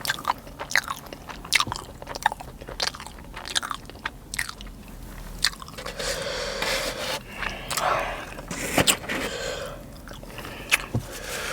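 Close-up chewing of a sushi roll: wet mouth clicks and light crunching. From about six seconds in there is a louder stretch of hissing noise.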